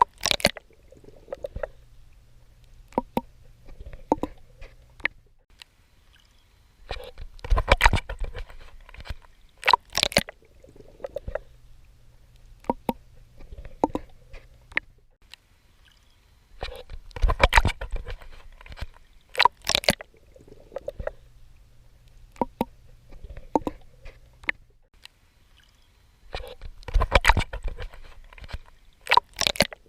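Water splashing from swimming strokes, in groups of several splashes that come back about every ten seconds, with a low steady hum between the groups.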